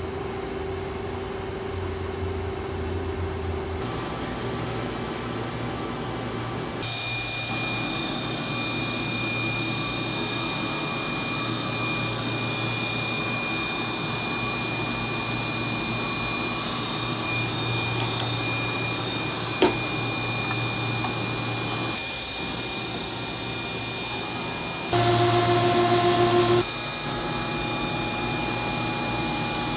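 CNC machine running with a steady mechanical whine whose tones shift in steps. About 22 seconds in it turns into a louder, high-pitched whine, then briefly a different tone, before settling back.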